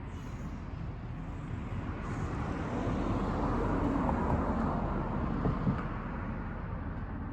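A passing vehicle: a steady noise that swells to a peak about halfway through and then fades, with two short knocks about five and a half seconds in.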